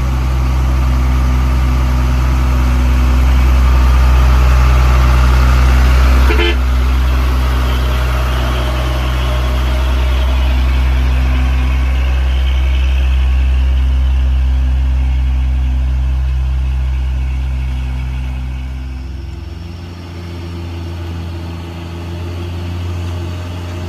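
Heavy vehicle engine running steadily close by, a deep even drone with a brief knock about six seconds in; the engine note drops and lightens about twenty seconds in.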